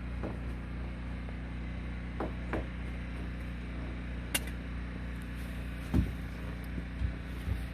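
Steady low hum of a gas-powered generator running. Several dull thumps and one sharp click about four and a half seconds in punctuate it.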